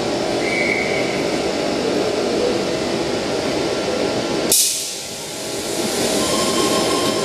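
Eight-car Sydney Trains Tangara electric train (sets T24 and T5) standing at an underground platform, its onboard equipment giving a steady hum. A short sharp hiss of air comes a little past halfway, and a steady high tone starts near the end.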